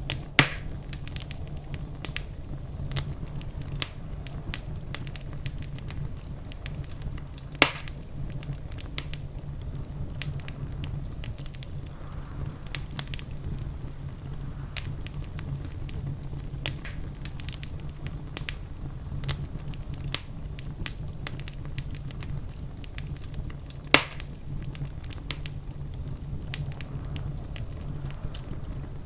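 Wood fire in a fireplace crackling, with a steady low rumble under a constant scatter of small ticks and snaps. Three louder pops stand out: one right at the start, one about a quarter of the way in, and one near the end.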